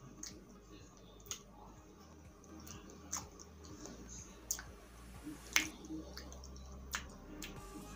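Close-miked eating: irregular wet mouth clicks and smacks as food is chewed with the lips closed, about half a dozen sharp clicks with the loudest a little past halfway.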